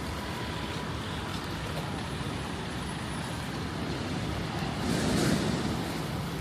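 City street traffic: a steady hiss of vehicles on wet roads, with one vehicle passing closer and louder about five seconds in.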